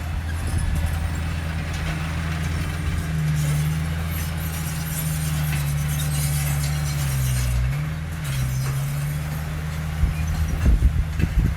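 Heavy diesel engine of an earthmoving machine running steadily under load, its pitch dipping briefly and coming back up about two thirds of the way through. A few knocks near the end.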